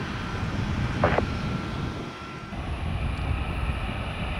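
Steady low rumble of jet airliner engines at the airport, with a short blip about a second in.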